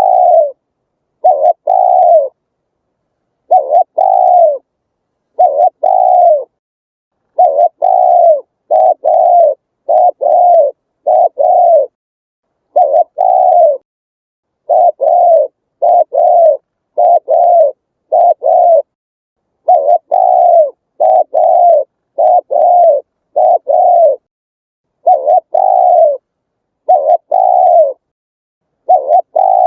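Spotted dove cooing: a steady series of short, low coos in groups of two to four, each note arching slightly in pitch, with brief pauses between the groups.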